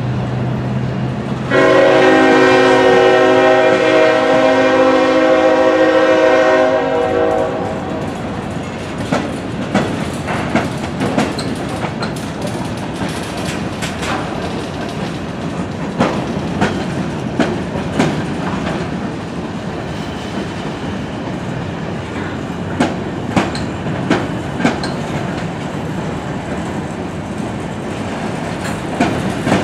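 A freight train of covered hopper cars rolls past with a steady rumble and repeated sharp clicks of wheels over rail joints. About a second and a half in, a train horn sounds one long chord-like blast of about five seconds, the loudest sound here.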